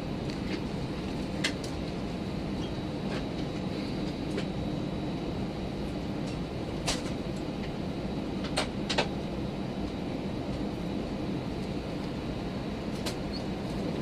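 Airbus A319 cabin noise from the front row: a steady low rumble with a faint high tone running through it, broken by a few short clicks and rattles, two of them close together just past the middle.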